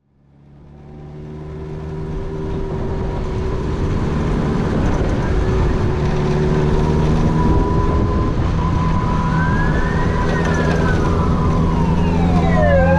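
Kawasaki Zephyr 750's air-cooled inline-four engine running steadily at low revs, fading in over the first few seconds. In the second half a siren wails, rising and falling in pitch.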